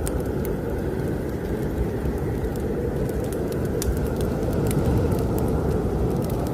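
Snowstorm wind blowing steadily with a low rumble, over a wood fire crackling with irregular sharp pops.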